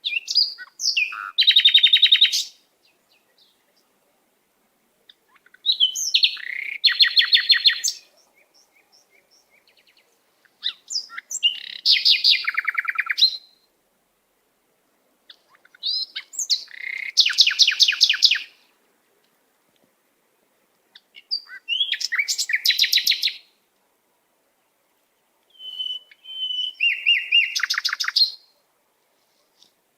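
A songbird singing the same kind of song six times, about five seconds apart. Each song is a few short opening notes and then a fast trill.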